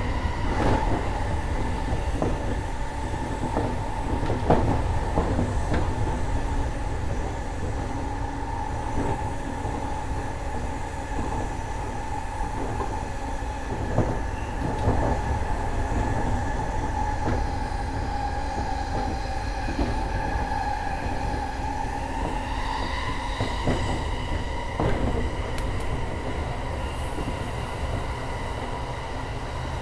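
E231-1000 series electric train running at speed, heard from inside the leading car: steady rumble with a whine that rises slightly about three quarters of the way through, and scattered clicks of wheels over rail joints.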